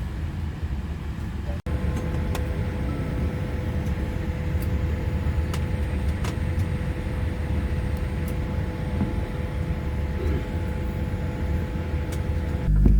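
Steady low rumble of cabin noise inside a Boeing 787 airliner taxiing, with a faint steady tone and a few light clicks. It drops out for an instant about a second and a half in, and near the end switches abruptly to a louder, deeper hum.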